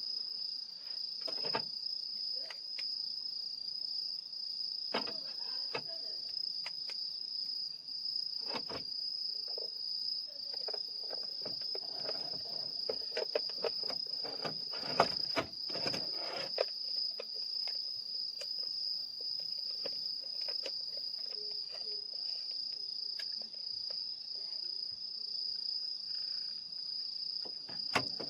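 Night insects trilling in one steady, high-pitched note, over a wood fire in a small fire stand giving off scattered snaps and pops that come thicker about halfway through.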